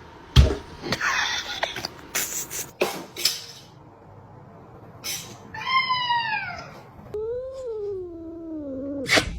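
A cat meowing twice: first a short meow falling in pitch, then a longer, wavering one. A few sharp knocks and clatters come before the meows, and a sharp click comes near the end.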